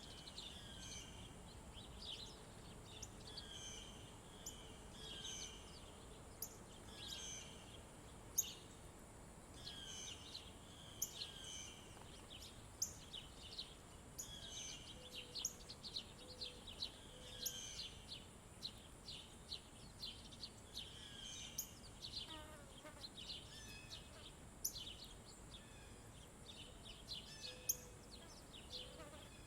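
Several small birds chirping and calling, with many short, high notes repeated throughout and a few lower notes partway through and near the end, over a faint steady high-pitched hiss.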